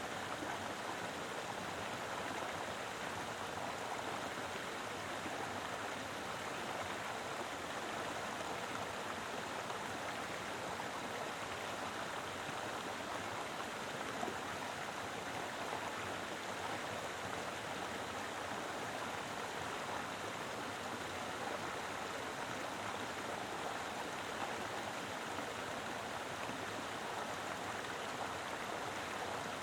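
Mountain river flowing over rocks: a steady, full rush of water.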